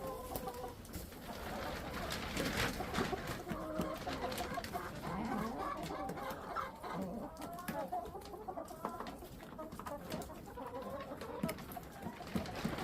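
Several backyard hens clucking and making soft, wavering calls, with sharp taps scattered among them and a low rumble of wind on the microphone.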